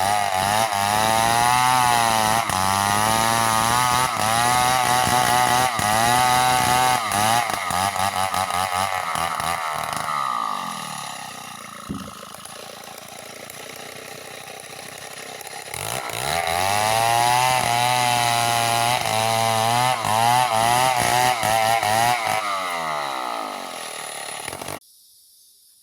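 Chainsaw engine running at high revs, its pitch wavering under load as it cuts through the ends of wooden planks. About ten seconds in it drops to a low idle for several seconds, then revs up and cuts again before dying away, and the sound cuts off suddenly near the end.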